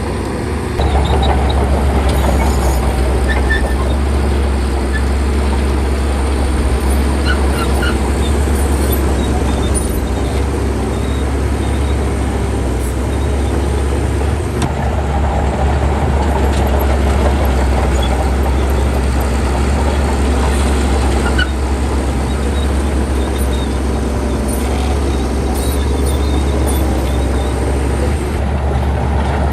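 Heavy diesel engine of earthmoving machinery running steadily under load, with a strong low drone and mechanical clatter. The sound comes up about a second in.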